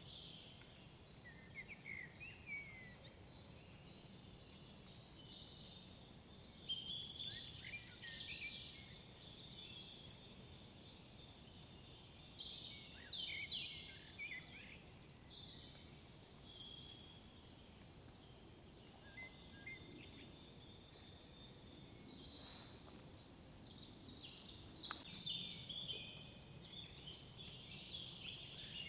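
Several woodland songbirds singing. One repeats a high, rising trill about every eight seconds, with shorter calls and phrases from other birds in between, over a steady low background hum of wind and distant noise.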